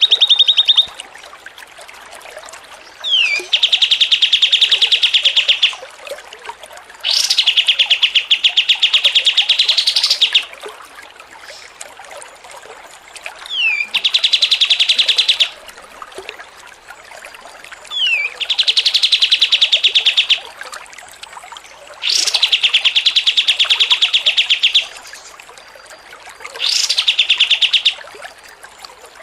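A songbird's rapid trilling chatter, the 'ngocor' style of song, comes in six phrases of about two to three seconds with short pauses between. Each phrase is led by a brief falling whistle.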